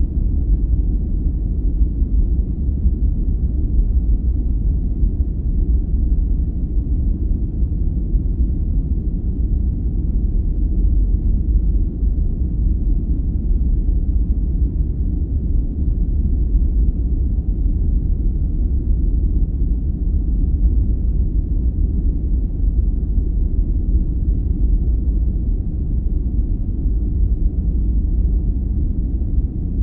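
Steady sleep-aid noise track: an even, deep rumbling hiss with most of its weight in the bass and almost nothing in the treble, unchanging.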